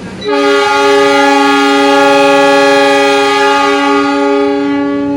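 Train horn blowing one long, loud blast: a steady chord of several tones that comes in suddenly and holds for about five seconds.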